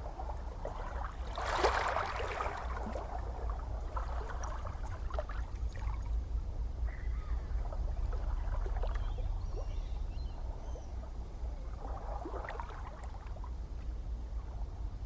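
Gentle ocean waves washing in over a steady low rumble, with fizzing and trickling water between them. The loudest wash comes about a second and a half in, and another rises near the end.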